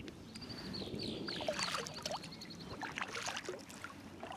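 Kayak paddling: the paddle dipping and water dripping and splashing in scattered strokes. A bird gives a quick run of high, repeated falling notes from about half a second in for some two seconds.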